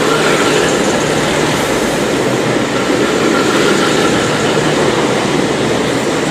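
V/Line VLocity diesel multiple unit at the platform as it arrives, its diesel engines and wheels making a loud, steady rumble with a faint high whine over it.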